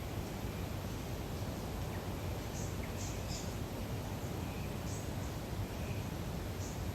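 Natural lake ambience: a steady low hiss and rumble, with a handful of short, high bird chirps and faint repeated softer calls.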